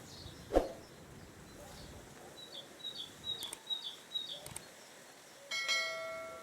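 Outdoor kitchen sounds. A sharp knock comes about half a second in, then a run of short, high bird chirps. Near the end a metal object is struck and rings out with several clear tones that fade.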